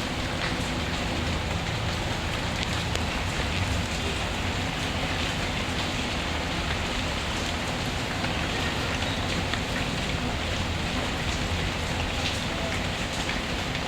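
Steady rain falling, mixed with the scattered small crackles of a wood fire burning in a fireplace.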